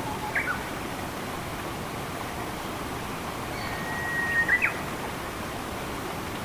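Steady rush of flowing water, with a songbird calling over it: a quick pair of falling chirps just after the start, and near the middle a held whistle that ends in a couple of sharp notes.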